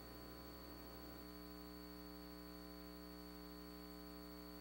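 Near silence: a faint, steady electrical hum and hiss in the recording.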